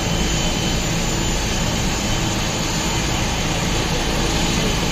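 Helicopter's turbine engine and rotor running steadily, a dense even noise heavy in the low end.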